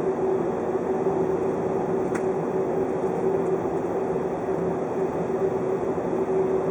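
A 583 series electric train running, heard from inside the passenger car: a steady rumble with a constant hum, and one short click about two seconds in.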